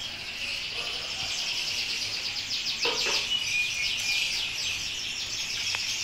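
Small songbirds chirping and trilling in a rapid, unbroken run of short high notes, with a short knock about three seconds in.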